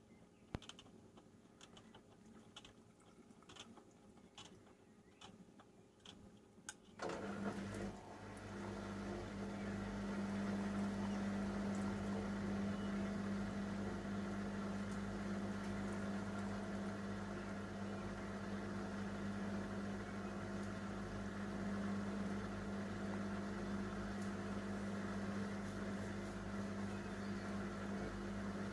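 Panasonic NA-147VB2 washing machine: a few faint clicks, then about seven seconds in its inverter motor starts turning the drum with a sudden steady hum. The hum builds for a couple of seconds and then runs evenly.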